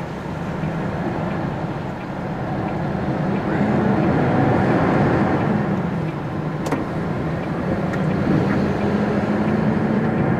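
Diesel engine and cab noise of a MAN TGX articulated lorry on the move, the engine note rising over the first few seconds, easing briefly and climbing again. One sharp click about two-thirds of the way through.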